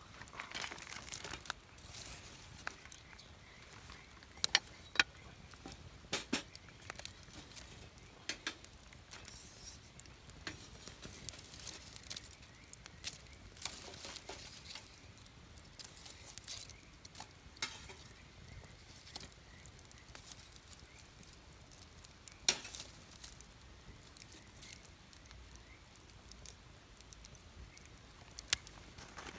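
Wood campfire crackling and popping: irregular sharp snaps over a faint hiss, with a few louder pops scattered through.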